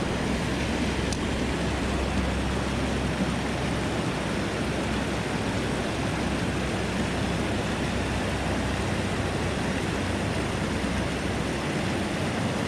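Steady rush of water pouring over a small creek waterfall, with a low rumble underneath that eases a few seconds in.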